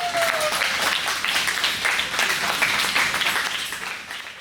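A group of people clapping, with a shouted cheer trailing off just at the start; the applause fades out near the end.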